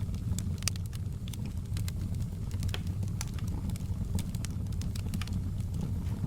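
Fireplace fire crackling: many short, sharp pops at irregular intervals over a steady low rumble of the flames.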